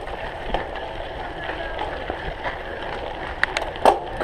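Cyclocross bike being raced over rough ground: steady tyre and wind noise, with a run of sharp rattling knocks near the end as the bike jolts over bumps.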